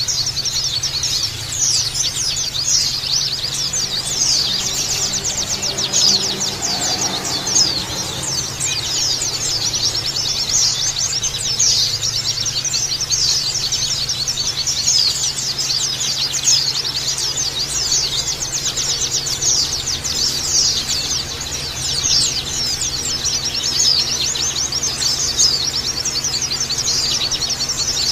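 A flock of white-eyes (pleci, Zosterops) twittering and chirping together in a dense, unbroken chorus of rapid high notes, the sustained group song used as a 'pleci ombyokan' recording to set other white-eyes singing.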